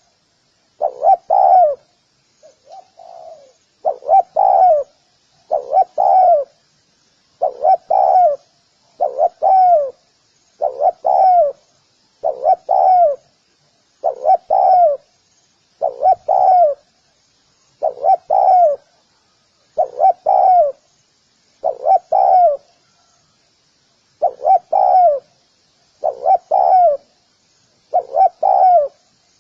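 Spotted dove cooing: the same phrase of two or three low notes is repeated about every two seconds, with one softer phrase a few seconds in. Faint, steady high twittering runs underneath.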